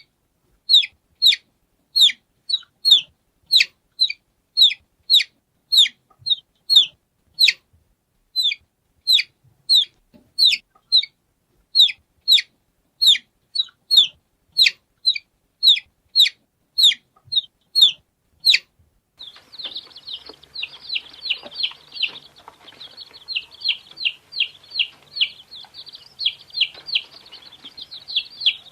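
Domestic chicks peeping. For about the first two-thirds, a single chick gives clear, evenly spaced peeps, each falling sharply in pitch, about two a second. Then the sound switches abruptly to a busier recording of several chicks peeping rapidly at once over a background hiss.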